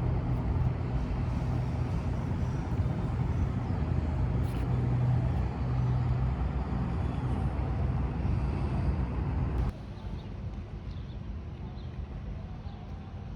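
A motor vehicle engine running with a steady low rumble, which drops off suddenly near the end to a quieter background.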